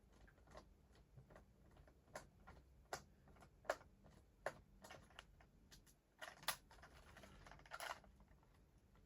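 Faint, scattered clicks and taps of a small plastic battery-powered toy train being handled, its battery compartment being worked at.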